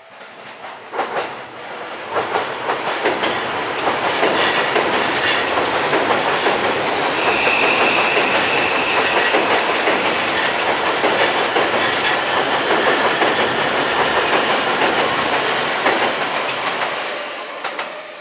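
Seibu 001 series Laview electric limited express passing over a steel girder bridge: rumble and rapid clickety-clack of wheels over the rail joints, building up over the first few seconds, holding loud, then fading away near the end. A brief high tone rises out of it about halfway through.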